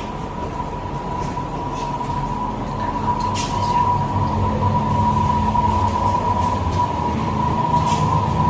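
A steady mechanical hum with a constant high whine, slowly growing louder, with a few faint clicks.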